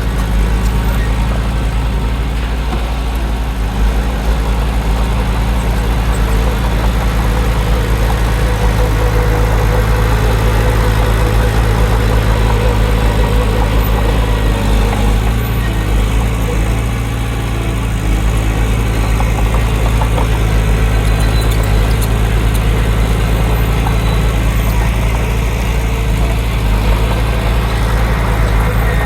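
Heavy diesel engine of earthmoving machinery running steadily, with a strong low drone; it eases slightly for a moment about two-thirds of the way through.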